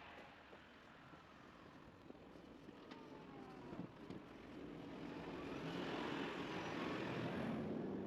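A car passing, its engine and tyre noise swelling over the second half and peaking near the end.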